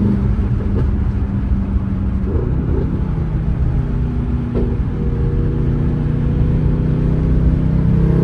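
Mercedes-AMG GT63 S twin-turbo V8 with a straight-piped custom exhaust, droning steadily while cruising; the pitch steps down a little over two seconds in, then holds steady.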